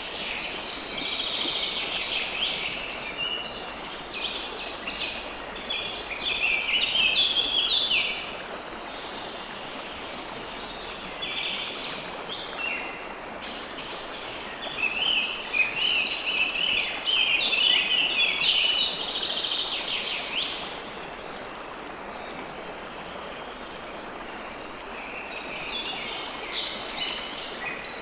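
River water flowing steadily, with songbirds singing over it in rapid, jumbled chirps. The birdsong breaks off twice for a few seconds while the water runs on.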